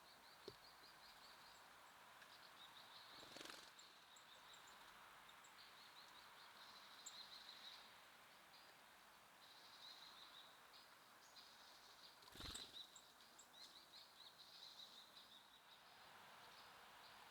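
Faint twittering of small songbirds, many short high chirps in quick runs, with two soft knocks, one about three seconds in and one near the twelve-second mark.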